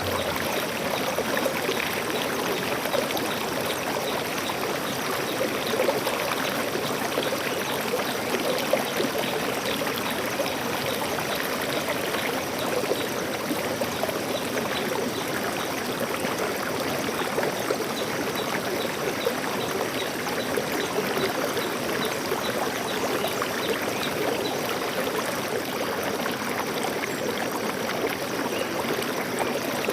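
Stream water flowing steadily over rocks, an even babbling rush that keeps up without a break.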